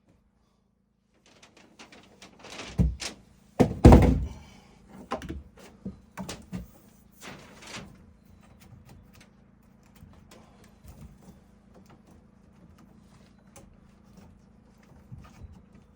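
A series of heavy wooden thuds and knocks, the loudest about four seconds in, followed by lighter taps and clicks, as from timber being handled and fitted while a door is framed.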